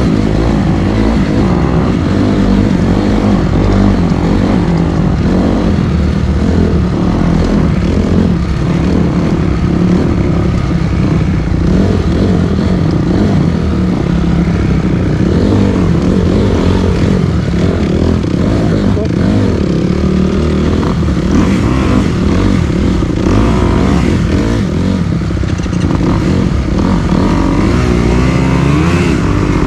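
Dirt bike engine running continuously under varying throttle, its engine speed rising and falling.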